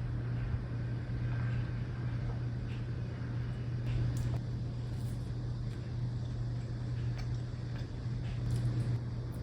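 A steady low hum with soft, scattered mouth and chewing clicks from someone eating Krispy Kreme doughnuts.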